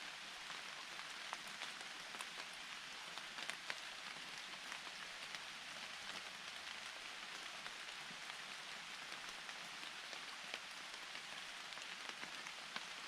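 Steady rain falling, with single close drops ticking sharply over the even hiss every so often.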